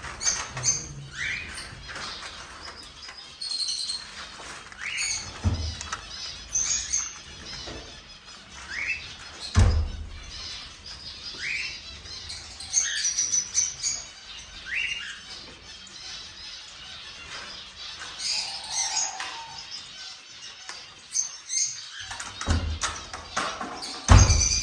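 Cockatiels calling: short upward-sweeping chirps repeat every couple of seconds, with higher calls over them. A few dull knocks come in between, about five and ten seconds in and again near the end.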